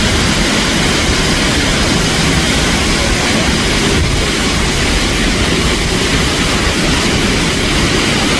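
Multnomah Falls, a waterfall over 600 feet tall, pouring down: a loud, steady rush of falling water.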